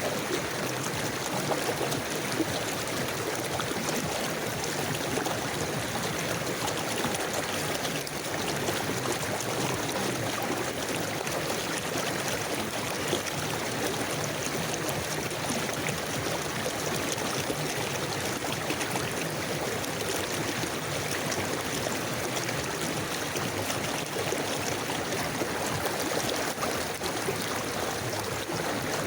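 A river flowing steadily over stones, a constant rushing and trickling with no pauses or changes.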